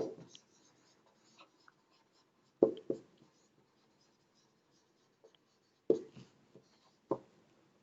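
Writing strokes: a few short, scratchy pen or marker strokes with quiet gaps between them.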